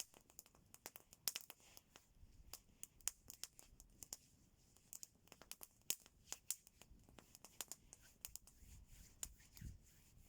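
Wood fire crackling: quiet, irregular sharp pops and snaps, several a second.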